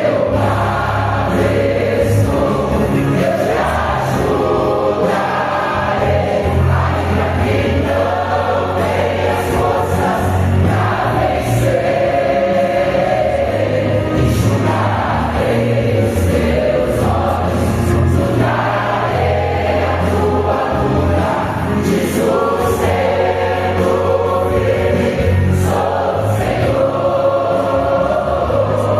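Church choir singing a gospel song over instrumental accompaniment with a sustained bass.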